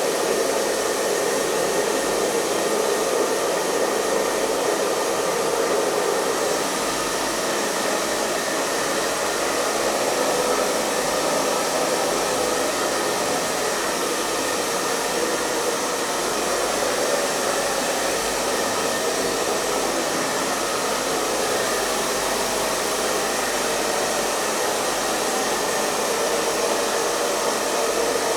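Hair dryer running continuously: a steady airflow rush with a faint motor hum and a stronger band in the lower middle, unchanging throughout.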